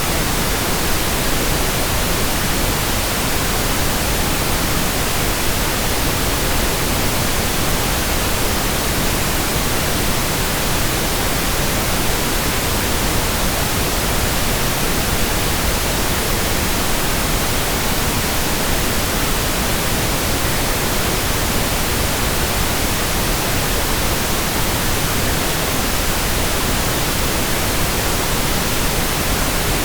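Synthetic pink noise: a steady, even hiss spread across the whole range of pitch, unchanging throughout.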